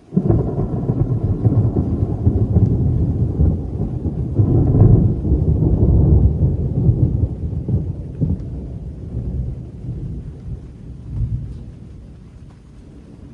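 Thunder from a nearby lightning strike: a sudden loud clap that rolls into a long, deep rumble, swelling again about five seconds in and then fading away.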